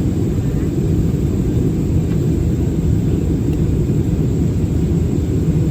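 Airbus A320-216 cabin noise in flight: the steady low rumble of the CFM56 engines and airflow heard from a rear window seat, unchanging throughout.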